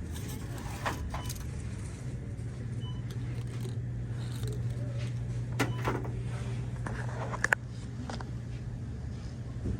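Steady low hum of a car running, heard from inside, with several light metallic clinks and jingles like keys jangling, the sharpest about 7.5 s in.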